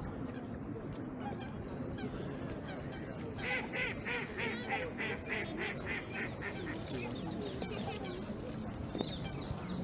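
A goose honking, a run of about ten calls at roughly three a second, over a background of other waterfowl.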